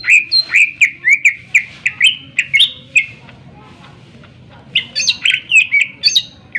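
Greater green leafbird (cucak ijo) singing loudly: a fast run of sharp repeated notes, about four a second, for around three seconds, then after a short pause a second burst of notes.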